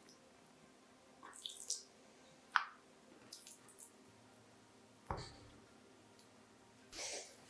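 Kitchen preparation sounds: liquid dripping and splashing, mixed with a few light clicks, a sharp tap about two and a half seconds in and a heavier knock about five seconds in.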